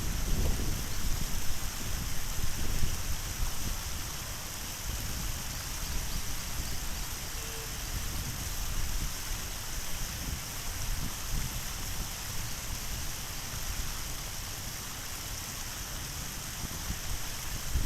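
Steady rush of water falling and running over a small waterfall, with an uneven low rumble of wind on the microphone.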